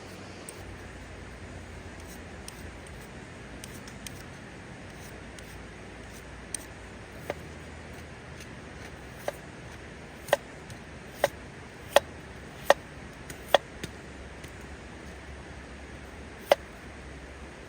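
A series of sharp clicks or knocks, about one a second at their busiest in the middle of the stretch, over a steady low hiss.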